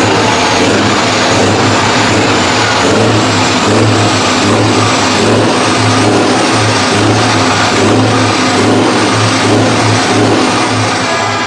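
Heavy truck's diesel engine running loud and close, with a thin high whine that climbs slightly over the seconds.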